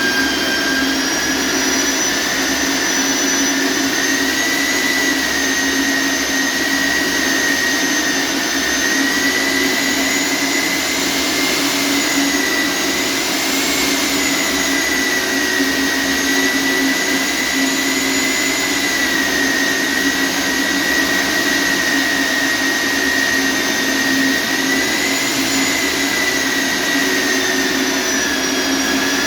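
Electric core drill running steadily, a continuous motor whine whose pitch wavers slightly up and down.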